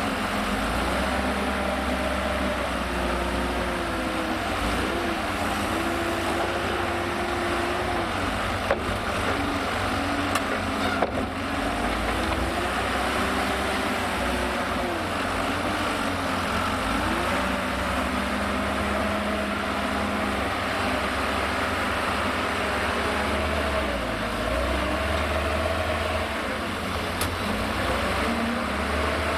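Liebherr L534 wheel loader's diesel engine working, its revs rising and falling repeatedly as it loads sand into a tipper truck. Two sharp knocks are heard, about 9 and 11 seconds in.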